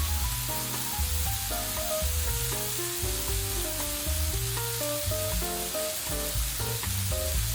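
Food sizzling and frying with a steady hiss, under background music with a bass line and a melody.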